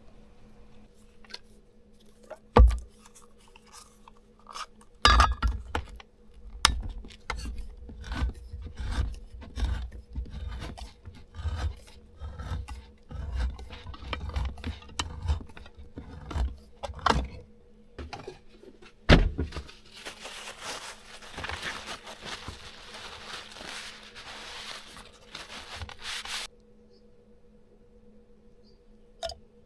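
Kitchen utensils scraping and knocking against a bowl or pan during food preparation: a knock, then a long run of rubbing scrapes and thumps, then about six seconds of dense, even scraping that stops suddenly.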